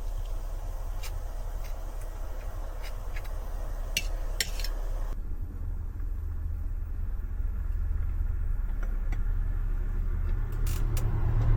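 A steady low rumble with scattered light clicks and taps; the background changes abruptly about five seconds in.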